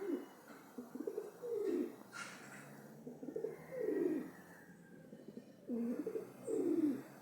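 Birds cooing: low, repeated call phrases a second or two apart, with a short higher chirp about two seconds in.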